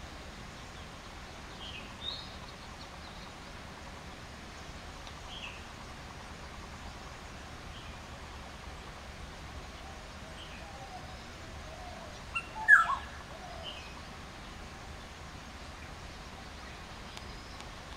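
Wild birds calling: short, high chirps every few seconds over a steady background hiss, and one louder, harsher cluster of calls about two-thirds of the way through.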